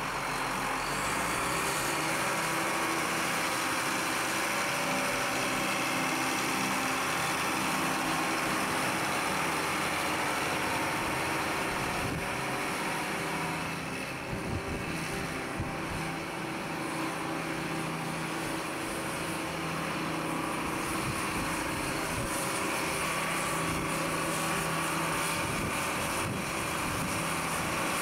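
Case IH 485 Quadtrac tractor's diesel engine running steadily, dipping a little in level about halfway through.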